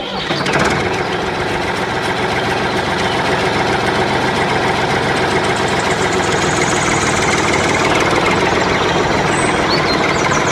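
A small motor running steadily, with a fast, even ticking texture.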